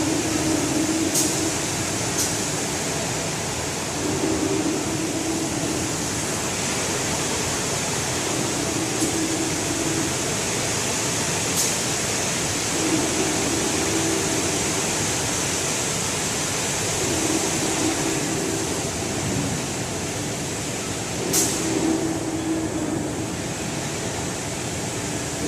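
Large-format automatic screen washout booth running: a steady hiss of water spraying from its nozzles, with a low hum that comes and goes about every four seconds and a few sharp clicks.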